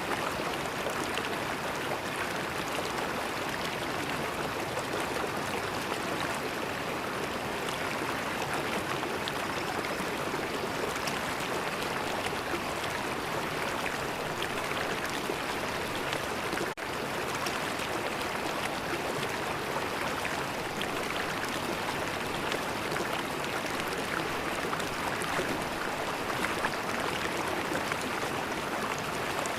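River water flowing steadily, an even, continuous wash of sound, with a split-second dropout about halfway through.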